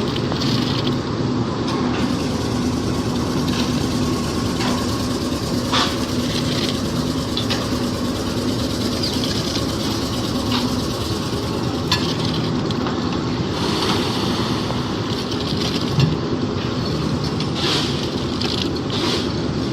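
Concrete mixer machine running steadily with a constant hum as its drum churns the mix, with occasional sharp knocks a few times.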